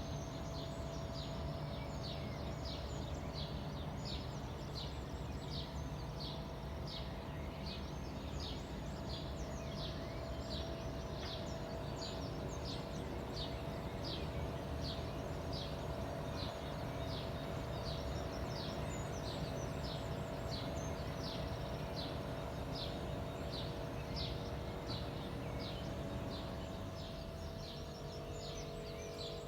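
A small bird chirping over and over at an even pace, about one and a half short chirps a second, over a steady low rumble of background noise.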